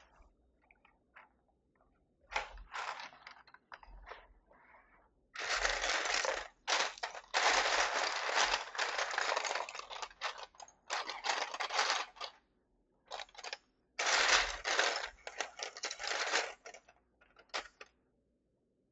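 Keys of a Keychron V6 Max mechanical keyboard being pressed in quick runs of clicks, several longer bursts of rapid-fire key presses with short pauses between them.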